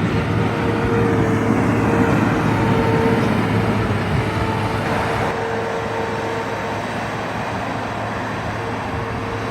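Heavy snowplow truck's engine running close by: a steady drone with a constant hum.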